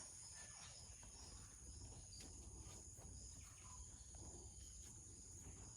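Faint, steady insect chorus: a continuous high-pitched trilling of crickets.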